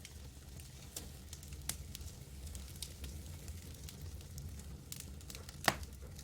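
Wood campfire crackling: a light hiss with irregular small pops over a steady low rumble, and one sharp, louder pop near the end.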